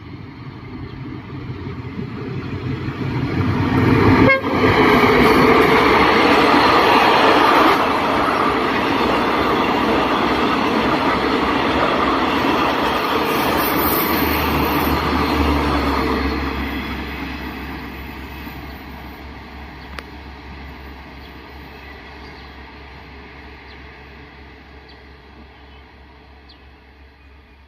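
Diesel-hauled passenger train passing close by. Its rumble builds over the first four seconds, stays loud for about twelve seconds while the carriages go by, then fades away.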